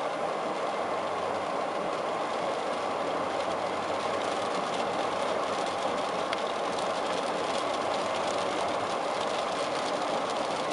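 Steady rush of rain on a car's roof and windshield, heard from inside the car, with many small scattered ticks of drops and the car's running noise beneath.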